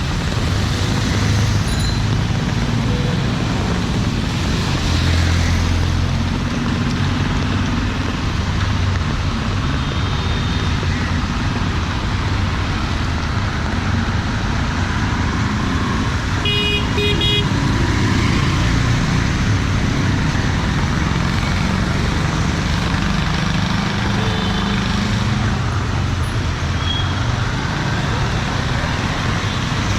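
Busy city street traffic: engines running and a steady road noise, with vehicle horns honking now and then, including a quick run of short beeps a little past halfway through.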